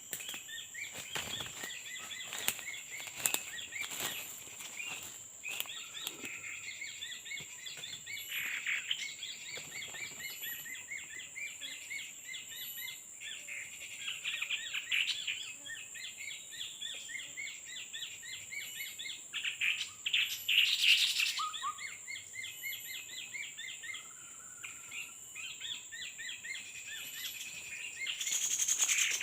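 Small birds chirping in rapid, dense runs of short calls, over a steady high insect whine. A few sharp knocks in the first few seconds and a louder rustling burst about 21 seconds in.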